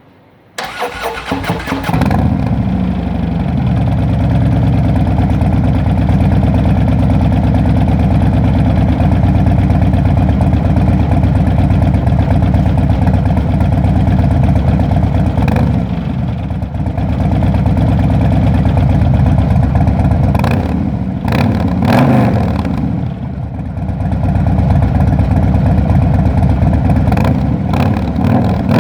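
Harley-Davidson Dyna Switchback's V-twin engine through a Vance & Hines Pro Pipe exhaust, starting about half a second in and settling into a loud, steady idle. It is given a few short revs, once near the middle, twice around two-thirds through and again near the end.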